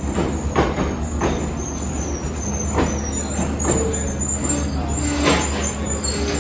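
Passenger train at a station platform: a steady low rumble with irregular metallic clanks and thuds, about five in all.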